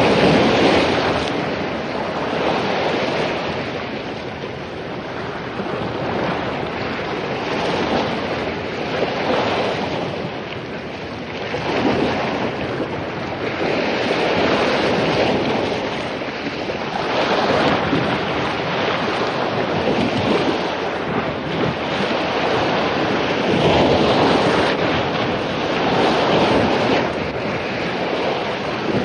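Surf: waves breaking and washing on a beach after a storm, each swell rising and falling every few seconds, with wind on the microphone.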